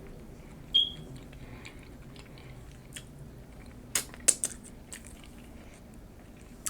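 A person chewing a mouthful of nachos close to the microphone, with soft mouth noises and a few sharp crisp crunches of tortilla chip about four seconds in. A short high squeak comes just under a second in.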